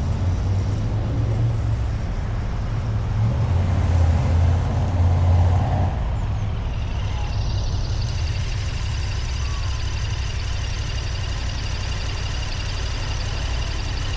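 Road noise of a car driving, picked up by a camera mounted on the bonnet behind a wind muff: a low rumble of engine and tyres. About seven seconds in the rumble eases and a steady high-pitched hiss joins it.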